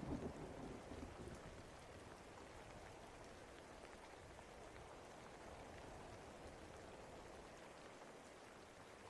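Steady, faint rain falling, with the last of a thunder rumble dying away in the first second or two.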